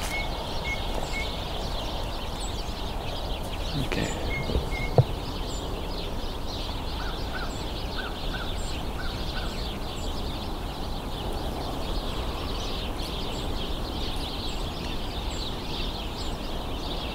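A large flock of house sparrows chattering continuously out of sight, many overlapping chirps.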